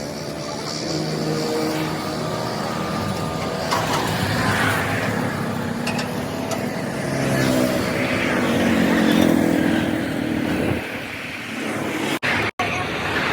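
Road vehicle engines running and passing, their hum rising and falling over tyre and road noise. The sound cuts out twice, briefly, near the end.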